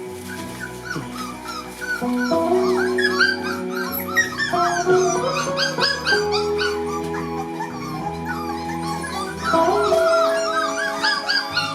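Month-old Border Collie puppies yipping and whimpering in many short, high squeaks, over background music with long held notes.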